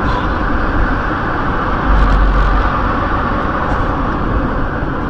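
Steady road and engine noise of a car driving, with a deep rumble that swells and eases, and no impact.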